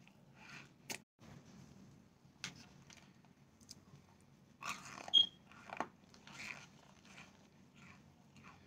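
Mouth sounds of biting and chewing packed cornstarch chunks close to the microphone: irregular soft squeaky crunches, with a sharp crunch and a brief squeak about five seconds in.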